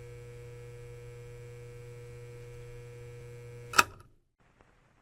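Steady electrical mains hum in an old soundtrack, with a few faint steady tones above it, cut off by a sharp click just under four seconds in, then near silence.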